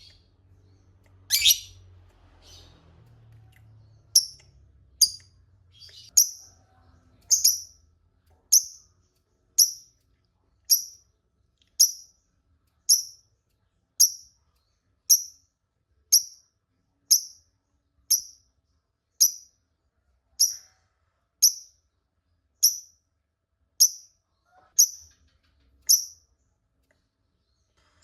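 Lovebird calling: a couple of sweeping calls near the start, then a long run of short, sharp, high single chirps, about one a second.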